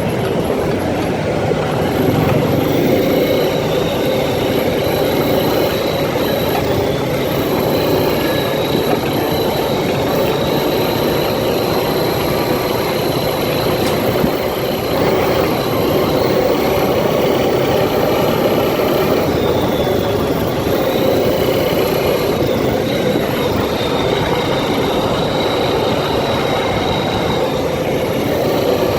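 An ATV engine running steadily while riding, with a constant high whine over the rumble of the engine and the terrain.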